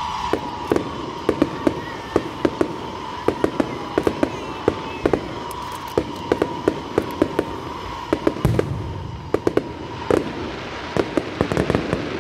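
Aerial fireworks bursting overhead: a dense, irregular run of sharp cracking pops, several a second, with a deep boom about eight and a half seconds in. A steady high tone sounds behind the pops.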